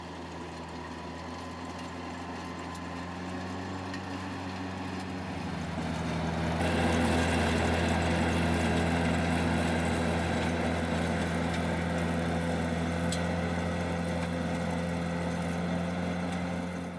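Tractor engine running steadily while pulling a tractor-mounted four-row seeder that tills, forms ridges and sows; it gets louder about six seconds in.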